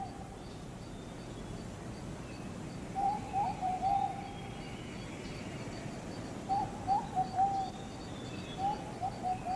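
Rainforest ambience: an animal gives three short bursts of quick, low calls of three or four notes each, over a faint hiss and a steady, faint high ticking.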